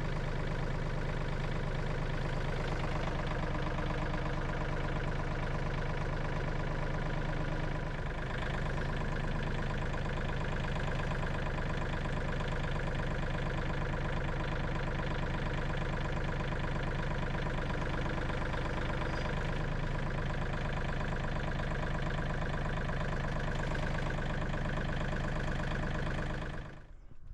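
Tractor engine running steadily at a constant speed, then cutting off abruptly near the end.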